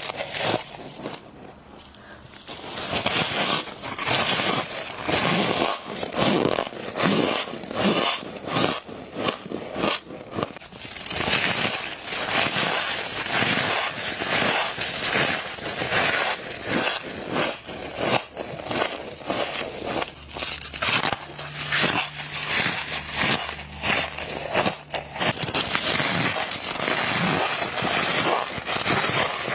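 Mouth biting and chewing flaky frost close to the microphone: a dense, irregular run of crisp crunches, with a brief lull about a second in.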